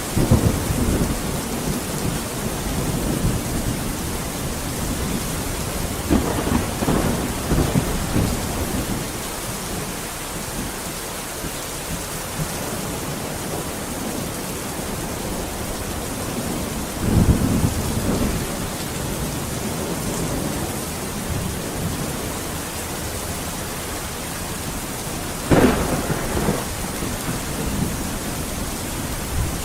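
Steady rain falling, with rolls of thunder breaking in four times: at the very start, about six seconds in, around seventeen seconds, and a sharper crack about twenty-five seconds in.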